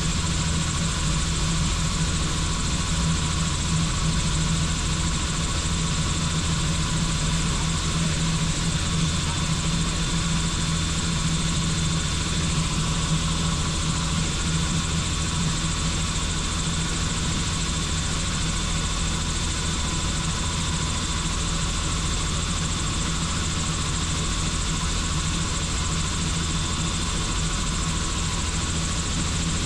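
Helicopter engine and rotor running steadily in flight: an even, constant drone with a thin high whine running through it.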